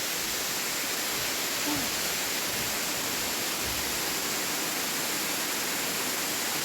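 Waterfall cascade rushing steadily: an even, unbroken hiss of falling water.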